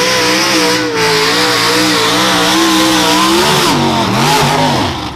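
Competition pulling tractor's engine running hard at high revs, its note wavering up and down. About four seconds in the pitch dips and climbs back once, then the sound drops away near the end.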